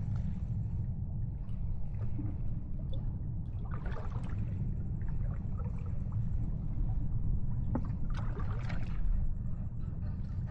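Sea water lapping and splashing over a steady low rumble, with two louder splashes, one about four seconds in and another around eight to nine seconds in.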